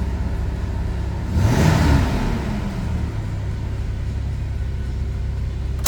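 2004 Toyota Tacoma 4x4 engine idling steadily after a cold start, with one quick throttle blip about a second and a half in that rises and drops back to idle.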